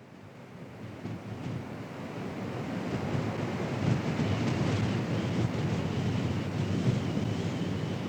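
Strong storm wind blowing into the microphone: a gusty rushing noise that builds over the first three seconds and then holds, with a faint wavering high tone over it from about four seconds in.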